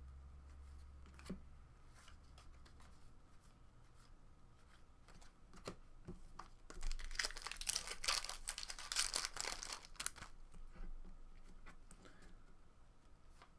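A baseball card pack's wrapper being torn open and crinkled: a dense rustling tear for about three seconds midway, with light clicks of cards being handled before and after.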